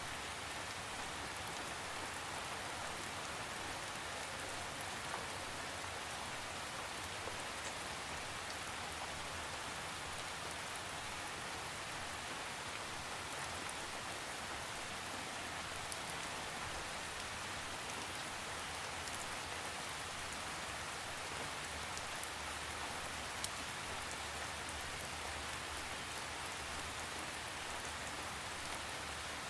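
Steady rain falling on a surface, an even hiss with faint scattered drop ticks and no thunder.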